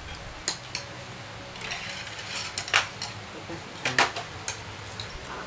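Eating utensils clinking against bowls and dishes at a meal: a handful of separate light clinks, the loudest near the middle and about four seconds in.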